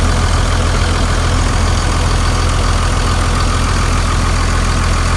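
Second-generation Cummins 5.9-litre inline-six turbo diesel idling steadily, loud and close, with a deep even rumble.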